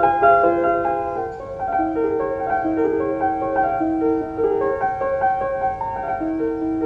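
Background piano music: a slow melody of held, overlapping notes.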